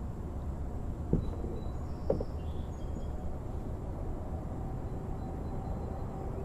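Two sharp knocks about a second apart, a hard object striking something, over a steady low outdoor rumble.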